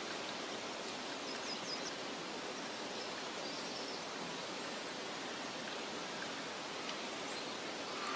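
Steady outdoor nature ambience: an even rushing noise with a few faint, high bird chirps, a quick cluster of four about a second and a half in and single ones later.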